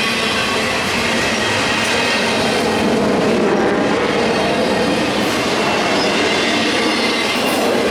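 A train running on the rails: a steady, loud noise of wheels on track.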